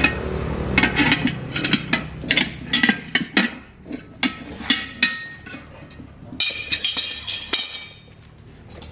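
Hand tools striking and clinking on metal: a run of hammer taps, then a quick cluster of ringing metallic clinks about six and a half seconds in. A low hum fades out about three and a half seconds in.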